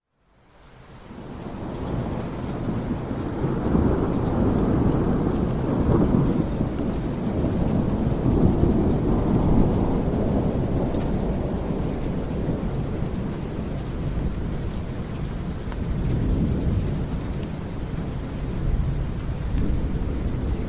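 Steady heavy rain with low rolling thunder, fading in from silence over the first couple of seconds; the rumbling swells strongest a few seconds in and again near the end.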